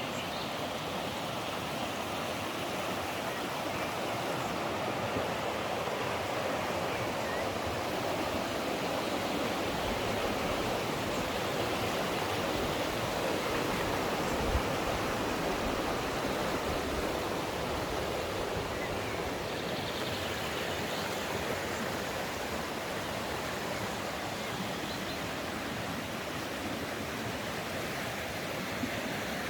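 Mountain stream rushing steadily, a continuous even sound of flowing water, with a single brief low thump about halfway through.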